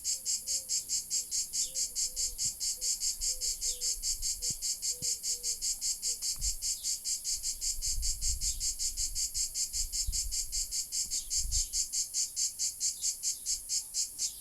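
A cicada calling in a fast, even train of high-pitched pulses, about five or six a second, which stops abruptly near the end.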